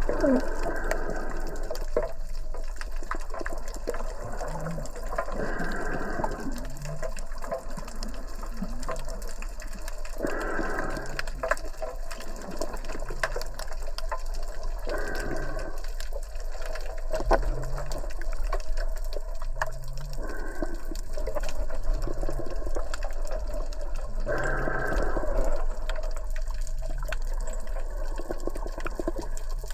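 Sea water rushing and surging, swelling louder about every five seconds.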